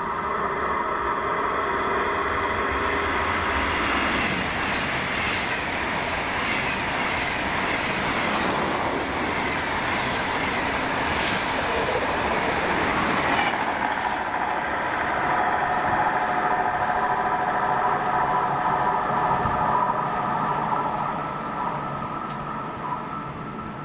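ICE high-speed train passing at speed, its wheels rushing steadily along the rails. In the second half a steady whine sits over the rushing, then fades near the end.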